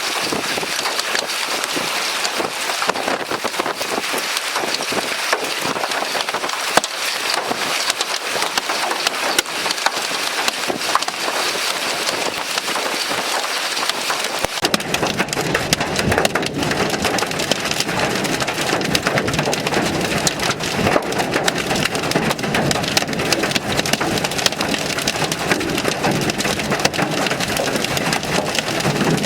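Hail and heavy rain striking hard surfaces in a dense, continuous clatter of impacts. About halfway through, a steady low rumble joins in and stays to the end.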